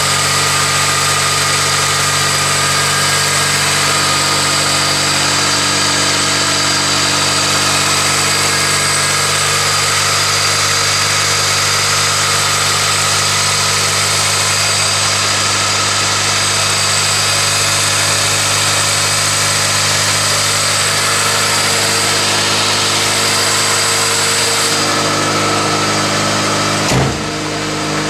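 1999 Toyota Corolla's 1.8-litre four-cylinder engine idling steadily just after a cold start in severe cold, still needing to warm up. About a second before the end a brief thump breaks in and the idle tone shifts slightly.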